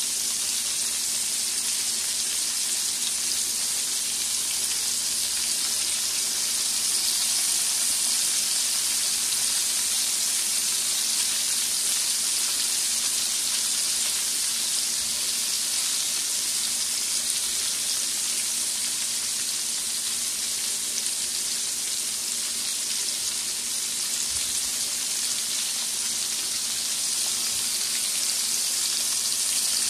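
Flour-dredged whole sardines frying in hot oil in an aluminium wok, sizzling with a steady, even high hiss.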